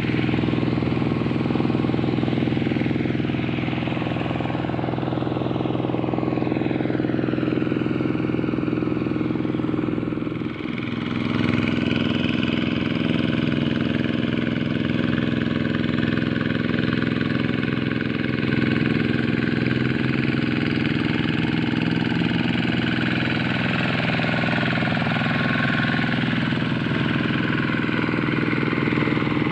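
Quick G1000 hand tractor's single-cylinder diesel engine running steadily, with a brief dip about ten seconds in.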